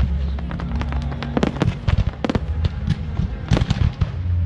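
Fireworks display going off: many sharp bangs and cracks in quick, irregular succession, over a steady low hum.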